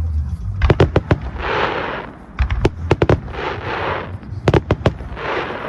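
Aerial fireworks bursting: three volleys of sharp bangs, each followed by a crackling rush of under a second.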